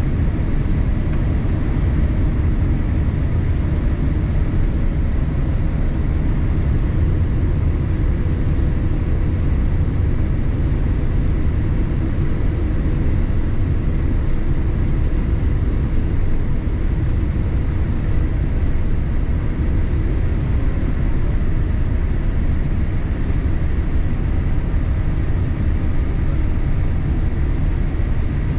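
Steady cabin noise inside a Boeing 787-8 airliner in flight: an even low rumble of engines and airflow, with faint steady whines above it.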